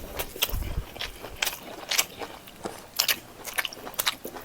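Close-miked eating: chewing and biting, with irregular wet smacks and crunches. A dull low thump comes about half a second in.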